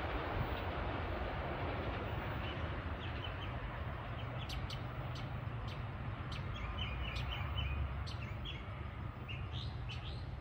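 Small birds chirping in quick, scattered notes over the steady low rumble of a train, which slowly dies away.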